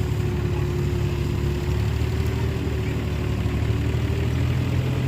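An engine running steadily, its pitch creeping slightly higher near the end.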